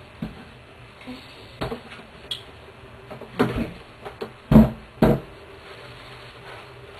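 Handling noises: a few knocks and rustles close to the microphone as headwear is taken off and refitted, the loudest about four and a half seconds in and another just after.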